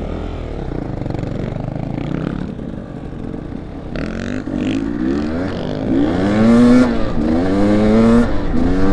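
Dirt bike engine running at low revs, then accelerating hard from about halfway through, the pitch climbing and dropping back at each of about three upshifts.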